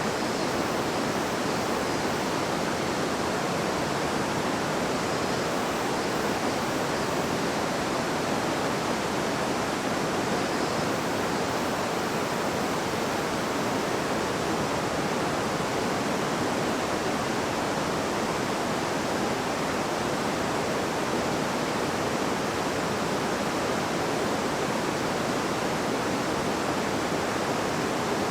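Shallow river babbling and rushing over stones, a steady even wash of water noise with no change in level.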